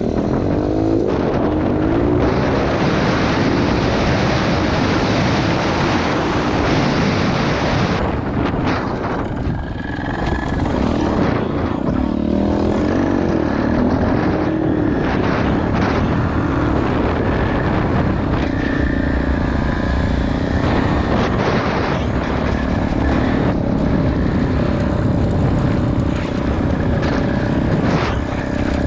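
Pit bike engine running while riding, its pitch rising and falling as the throttle opens and closes. A loud rushing noise covers it for the first several seconds.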